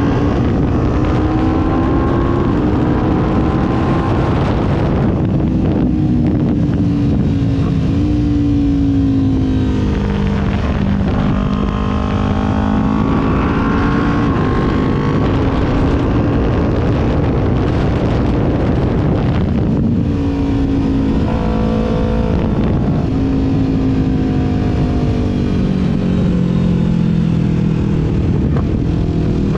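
Kawasaki Ninja 400's parallel-twin engine under way, its revs climbing and falling repeatedly with several sharp drops in pitch as it shifts gears, over a steady rush of wind.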